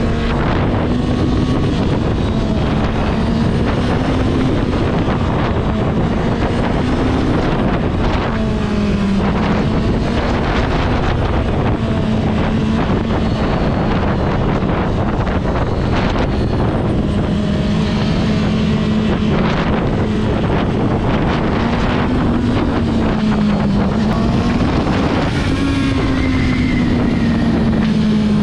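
Honda CB650R's inline-four engine running at a steady cruise, its pitch easing up and down slightly with the throttle, under heavy wind rush on the microphone.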